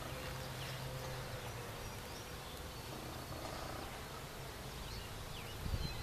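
Honey bees buzzing in an opened five-frame nuc box, a steady low hum, with one dull knock near the end.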